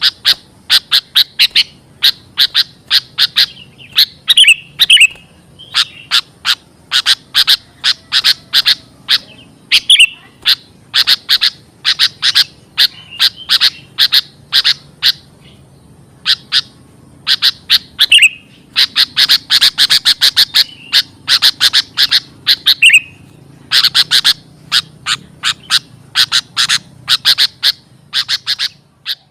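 Sooty-headed bulbul (kutilang) giving rapid runs of short, sharp chip calls, broken by brief pauses and an occasional short falling note: a busy, agitated bird-lure recording.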